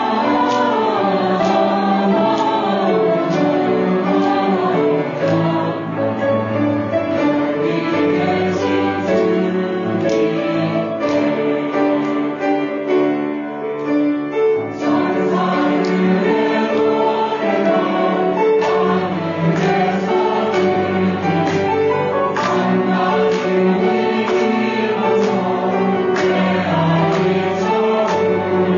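Church choir singing a Christmas hymn, many voices holding sustained chords, with a brief softer passage in the middle.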